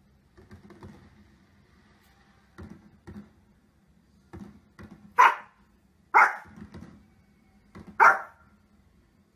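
A Pomeranian barking: three loud, sharp barks about a second or two apart in the second half, after a few fainter short noises.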